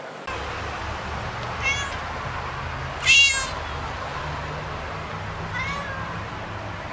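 A cat meowing three times, short high calls with the middle one loudest, over a steady low hum.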